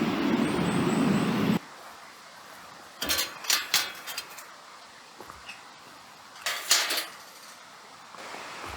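A steady rumbling noise cuts off suddenly about a second and a half in. Then come two short bursts of clinking and clattering, like metal camping cookware and gear being handled.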